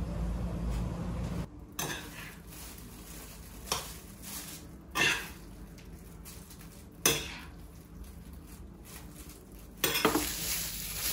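Metal utensils clinking and knocking against dishes and pans, a handful of separate clinks a second or two apart. A steady low hum under the start cuts off about a second and a half in.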